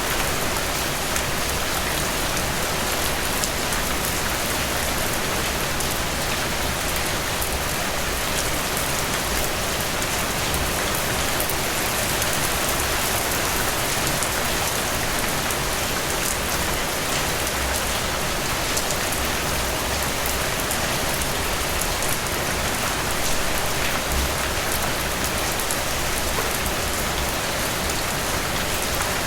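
Steady heavy rain falling on a surface, a dense even hiss with scattered drop ticks.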